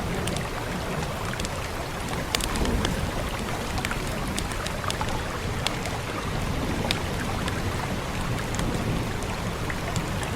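Steady rain hiss over a low rumble, with the sharp pops and crackles of a wood fire scattered irregularly through it.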